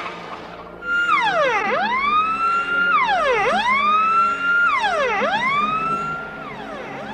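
Police car siren wailing, its pitch sweeping down and back up about every second and three-quarters, starting about a second in.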